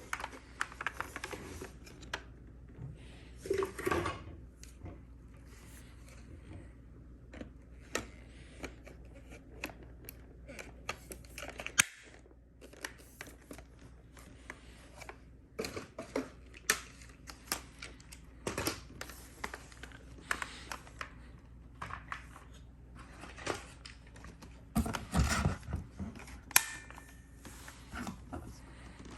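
Unboxing handling noise from a Dyson V15 cordless vacuum and its packaging: irregular clicks, taps and rustles as parts and packaging are handled, with a louder spell of handling about 25 seconds in. The vacuum's motor is not running.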